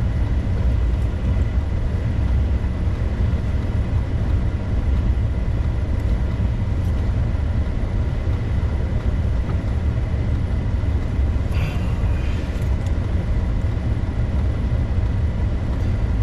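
Vehicle driving on a road, a steady low rumble of engine and tyre noise, with a brief sharper sound about twelve seconds in.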